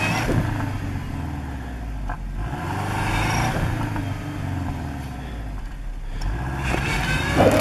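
2005 Subaru Forester XT's turbocharged flat-four engine revving under load, its pitch rising and falling, as the car tries to drive out of deep snow with the wheels spinning.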